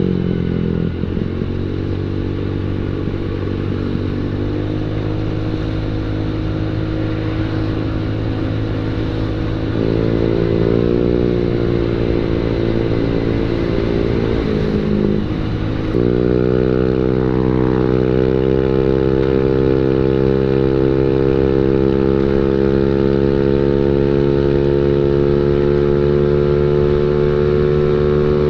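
Automatic scooter engine running through an aftermarket quiet-type exhaust, ticking over steadily at first, then revved up about a third of the way in and held at higher revs from just past the middle, the pitch creeping slowly upward.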